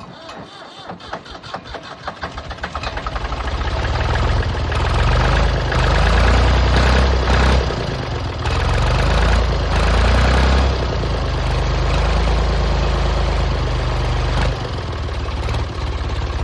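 A Ford 3930 tractor's three-cylinder diesel engine cranks on the starter in quick, speeding-up beats, catches about three seconds in, and runs loudly with its speed rising and falling before easing back toward an idle. This is its first start after sitting for eight to nine years.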